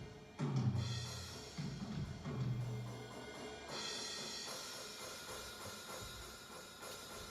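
Electronic drum kit played through the sound system: three low tom-like drum hits in the first three seconds, then a cymbal crash a little past halfway that rings on and slowly fades.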